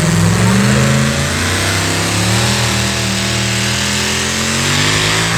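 Competition pulling truck's engine running hard under load during a pull, loud, its pitch climbing gradually.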